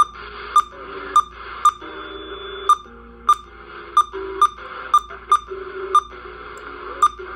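A Barecat 980 SSB CB radio giving short beeps at uneven intervals, about a dozen in all, as its buttons and knobs are worked, over the radio's steady receiver hiss.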